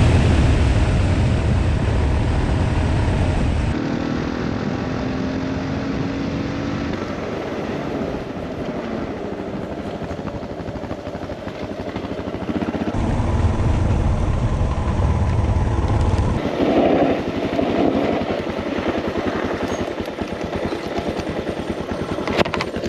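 Suzuki DR650 single-cylinder motorcycle riding along under wind noise, its engine a steady rumble. The sound changes abruptly a few times.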